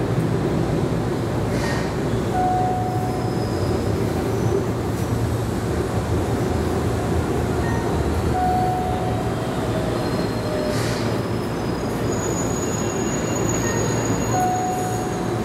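Steady hum and noise of a Keihan 13000-series electric train's onboard equipment, heard inside the front cab while the train stands at a station. A short, clear tone repeats three times, about six seconds apart, and a faint high whine runs through the last few seconds.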